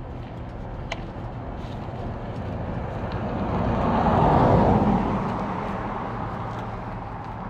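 A car overtaking close by: its tyre and engine noise swells to a peak about halfway through, then fades away.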